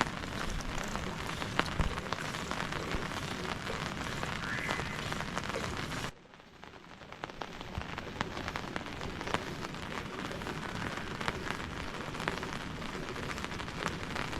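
Steady rain falling on surfaces, with a dense patter of individual drops. About six seconds in the sound cuts off abruptly, then swells back up to a steady fall.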